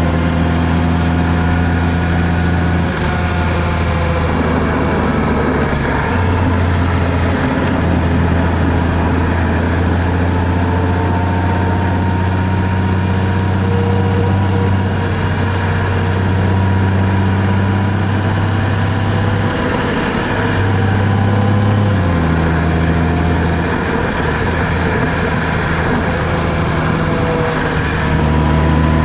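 A car's engine and road noise while driving, a steady low drone whose pitch steps up or down a few times as the engine speed changes.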